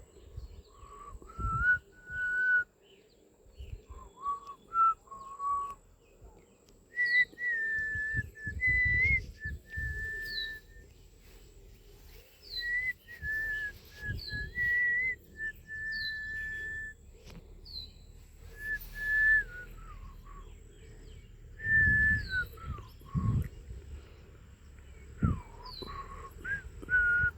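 A songbird singing clear whistled phrases: held notes with quick slides between them, often led by a brief high upswept note, repeated in groups with short pauses. Intermittent low rumbles sound underneath.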